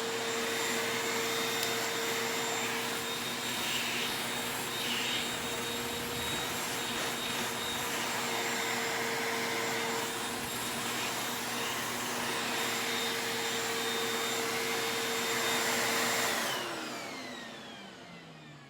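Vacuum cleaner running steadily, a rushing air noise over a steady motor hum. About sixteen seconds in it is switched off and the motor's pitch falls away as it spins down.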